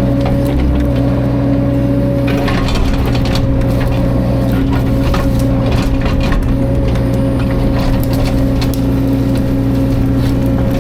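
Caterpillar 305.5 mini excavator's diesel engine running at a steady, constant speed. Scattered sharp cracks and knocks are heard over it, densest about two to three seconds in.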